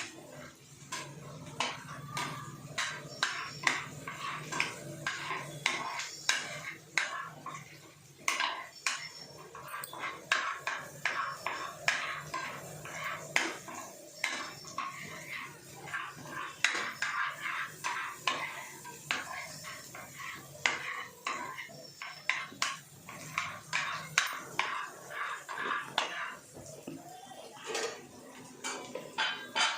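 A metal spoon scraping and clinking against a kadai in irregular strokes as the contents are stirred.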